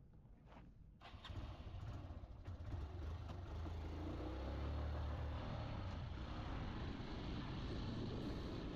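Motorcycle engine running with a low, steady rumble. It comes in about a second in and grows louder.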